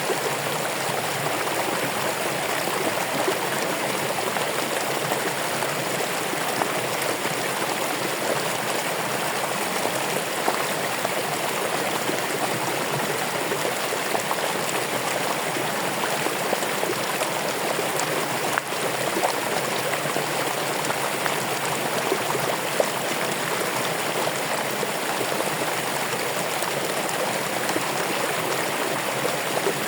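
Running water flowing steadily, an even rushing and splashing like a stream.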